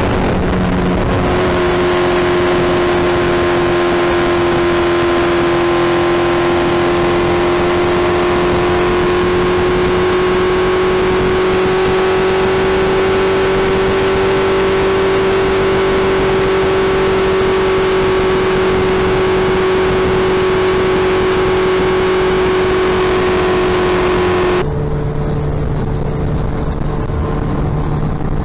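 Suzuki Hayabusa inline-four engine running through a loud aftermarket exhaust at a steady, nearly constant engine speed, the pitch drifting only slightly. About 25 seconds in the sound changes abruptly: the hiss drops away and the engine tone shifts to a different pitch.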